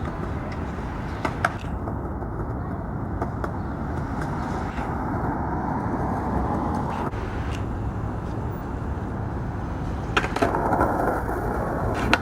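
Skateboard wheels rolling on pavement: a steady rumble with a few sharp clicks, and more clacks near the end.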